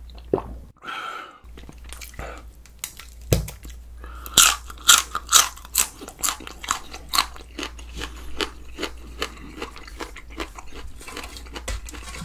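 Close-miked crunching as crunchy raw vegetables are bitten and chewed: a run of loud, sharp crunches about four seconds in, easing into lighter, quicker chewing crunches.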